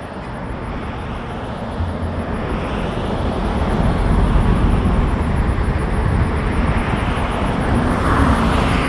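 A steady outdoor rumbling noise, mostly low in pitch, that grows slowly louder.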